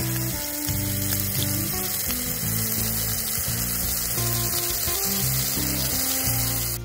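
Steak and potatoes frying in oil in two frying pans on a camping gas stove, with a steady, dense sizzle. Background music plays underneath.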